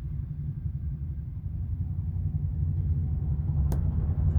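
Steady low rumble of highway traffic, growing a little louder near the end, with one sharp click a little before the end.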